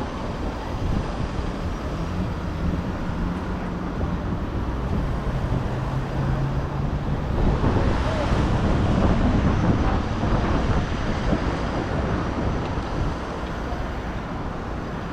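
City street traffic: vehicle engines running and passing, with one vehicle growing louder and then fading about halfway through.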